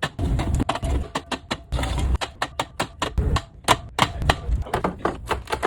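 Drink cans and bottles being set one after another onto fridge shelves: a quick, uneven run of clicks, clinks and knocks, several a second, with duller thumps of handling among them.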